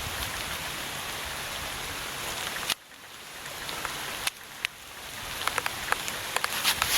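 Steady rain falling on forest vegetation, an even hiss that drops away suddenly partway through and builds back up. Sharp ticks of single drops scatter through the second half.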